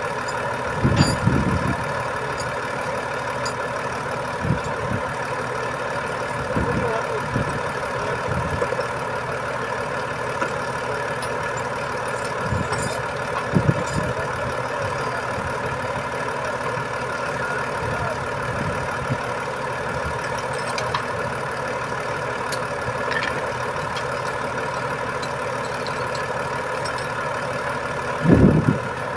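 Truck engine idling steadily, with a few brief low bumps, one about a second in and another near the end.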